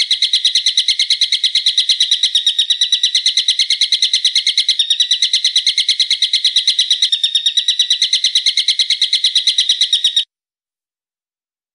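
A songbird calling in a fast, steady run of sharp, high repeated notes, about seven a second, which cuts off abruptly near the end.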